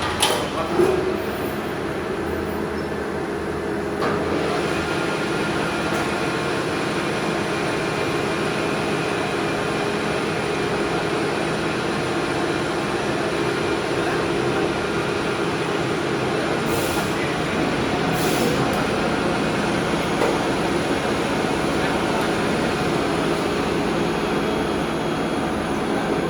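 Metal-working lathe running with a steady mechanical drone and a thin whine. There is a sharp knock right at the start, and about four seconds in the level rises a little as the whine joins.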